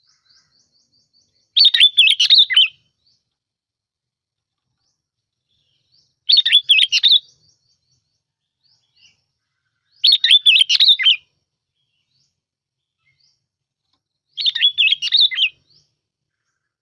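A bulbul singing four short, bubbling song phrases, each about a second long, spaced about four seconds apart with silence between.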